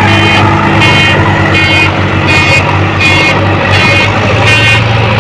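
Sonalika DI tractor's diesel engine running steadily under a load, with a short high beeping tone repeating about every 0.7 seconds over it.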